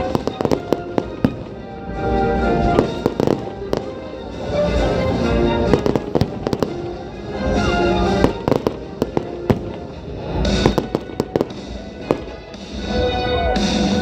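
Fireworks going off in a dense run of sharp bangs and crackles, with music playing underneath.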